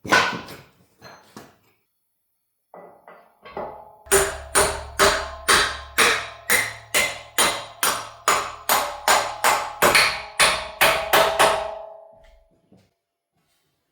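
Steady hammer blows on metal, a little over two a second, each with a short metallic ring, starting with light taps and easing off near the end.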